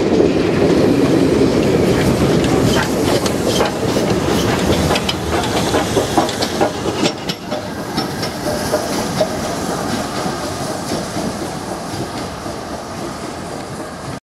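Railway coaches running past at speed, their wheels clattering over the track: a heavy rumble for the first couple of seconds, then a run of sharp clicks as the last coaches go by, then the sound of the train dying away into the distance.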